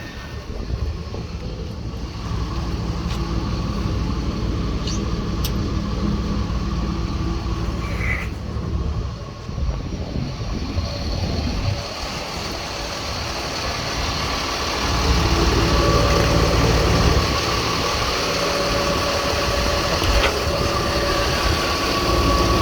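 Jet fuel truck's engine running steadily; about fifteen seconds in the fuel pumps come on, and the sound grows louder with a steady whine added.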